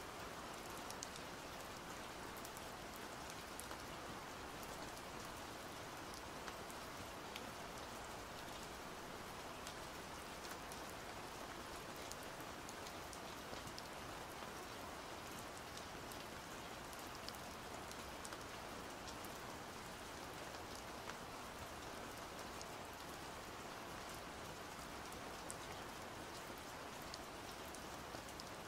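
Steady, even rain with small drop ticks scattered through it.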